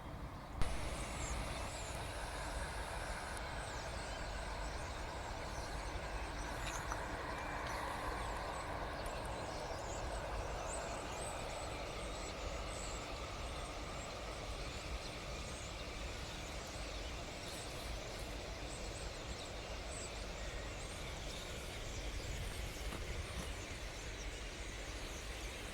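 Faint short chirps of small birds over a steady rumbling background noise, with one sharp click about half a second in.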